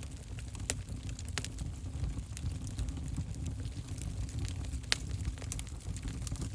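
Fire burning in a fireplace: a steady low rumble of flames with scattered crackles and pops, a sharper pop about five seconds in.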